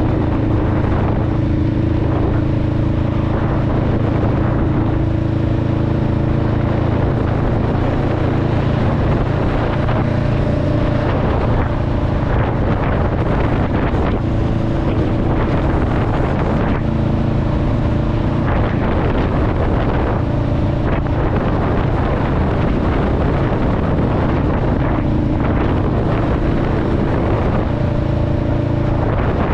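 Honda Rebel 500's parallel-twin engine and exhaust running under way, with engine speed shifting a little every few seconds, and wind on the microphone.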